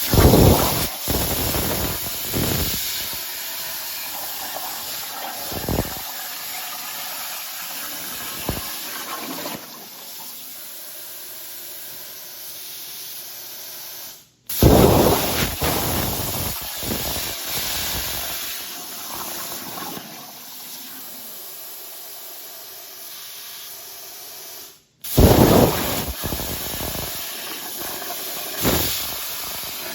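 Plasma cutter arc cutting aluminum sheet: a steady, loud hiss with crackling. It cuts out suddenly twice, and each time it starts again with a loud burst of crackle before settling back to the hiss.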